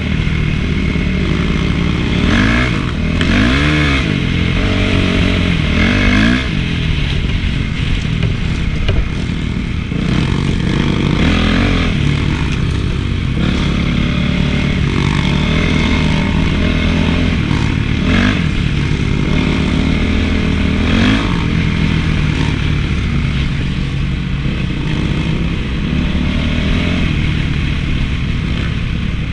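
Honda CRF450 four-stroke single-cylinder motocross engine running under riding load, its pitch rising and falling with the throttle, with several quick revs in the first few seconds.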